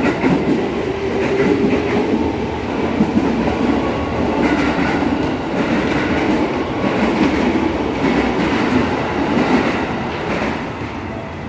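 Electric commuter train running along the platform: a steady, loud rumble of its wheels on the rails, with light clatter, easing slightly near the end.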